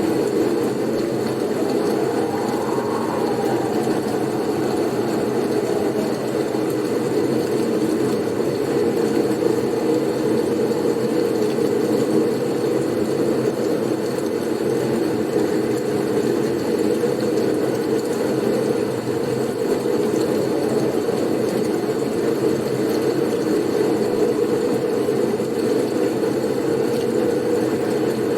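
Blizzard wind: a steady, low rushing noise, with a faint whistle of wind rising and falling in pitch about two to four seconds in.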